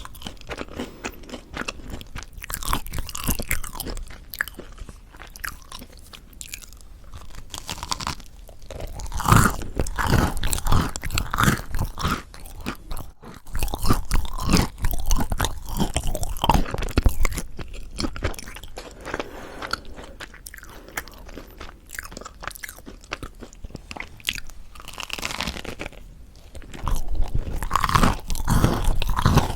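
Close-miked eating of crispy mocha chapssal bread: a person bites into and chews the crisp crust. Loud crunchy bites and chewing come in spells about nine seconds in, around fourteen seconds and again near the end, with softer chewing between.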